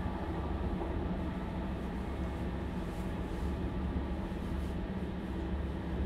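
A Stadler Class 755 FLIRT bi-mode train heard from inside, near its diesel power pack, while under way. Its engines give a steady low drone over the train's running noise.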